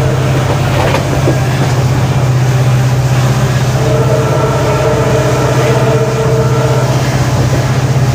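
WDP4D diesel-electric locomotive's EMD two-stroke V16 engine giving a steady deep hum under way, with fainter higher steady tones and the train's running noise.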